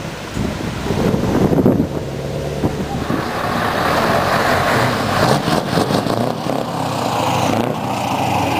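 Scania V8 truck engine running, with a broad rush of road and tyre noise that swells about three seconds in.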